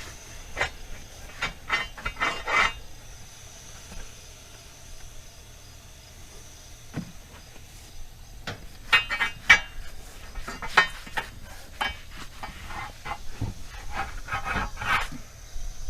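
Irregular clusters of scraping, rubbing and knocking from hand work on a tractor tire and its tube, over a faint steady high hiss.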